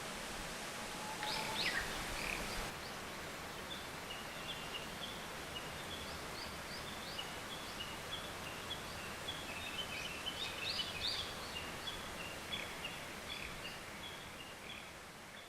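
Birds chirping over a steady background hiss. A few louder sweeping calls come about a second in, then a long run of short, quickly repeated high chirps follows, busiest about two-thirds of the way through.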